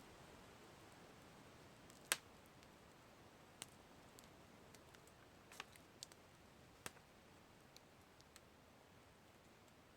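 Campfire crackling: scattered, irregular sharp pops over a faint steady hiss, the loudest pop about two seconds in.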